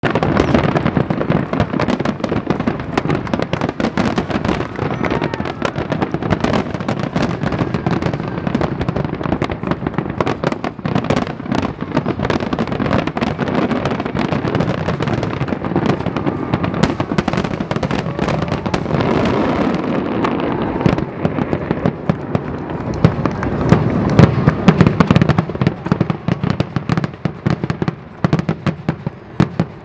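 Aerial fireworks display: a rapid, continuous barrage of shell bursts, bangs and crackles with no pause, easing off in the last couple of seconds.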